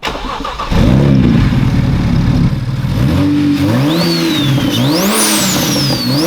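BMW 335i inline-six, converted to a single turbo, running and revved in repeated short blips, the revs rising and falling several times. From about halfway in, a high whistle rises and falls with each blip.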